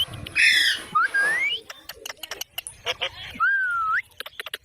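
Green parrots calling: a harsh squawk, then whistled glides that rise in pitch, with sharp clicks scattered in between.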